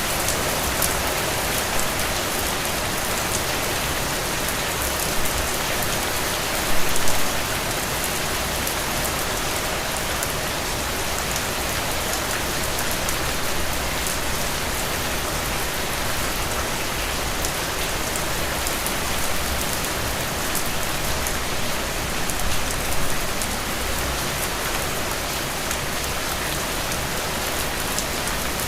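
Heavy rain falling steadily, a dense even hiss with sharp ticks of single drops striking close by. Twice, about a quarter of the way in and again near three quarters, it briefly swells louder.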